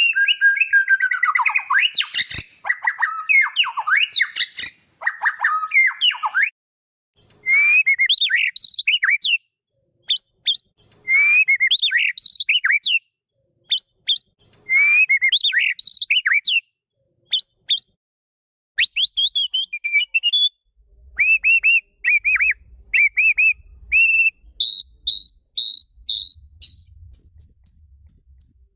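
White-rumped shama (murai batu) song: varied whistled phrases with short pauses between them, then from about two-thirds of the way in a run of quick repeated notes that step up higher in pitch near the end.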